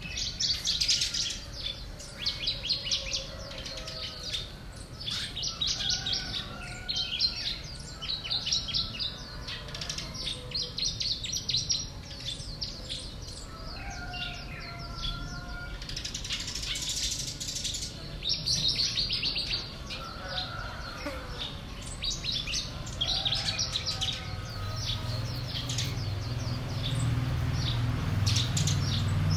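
Several small songbirds chirping and twittering almost without pause, in quick runs of high notes with a few lower whistled phrases among them. A low hum builds up underneath near the end.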